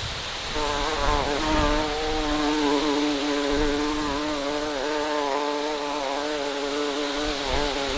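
A bee buzzing in flight, a steady, slightly wavering hum that starts about half a second in, over a steady hiss.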